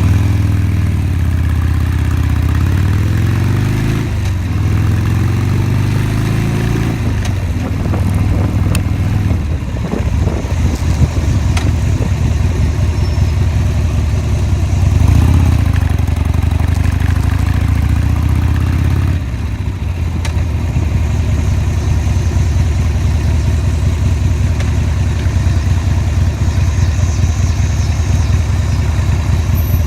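Motorcycle engine under way, pulling up through the gears: the pitch climbs and drops back twice in the first seven seconds, then it runs on at speed. It rises again around the middle and settles to a lower, steadier note about two-thirds of the way in.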